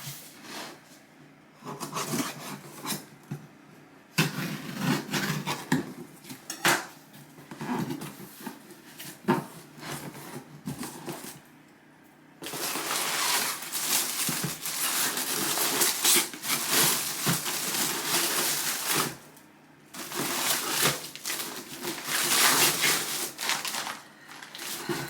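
A mail package being opened by hand: scattered crinkles, rustles and knocks of packaging being handled, then, about halfway through, several seconds of continuous rustling and tearing of the wrapping, pausing briefly and starting again.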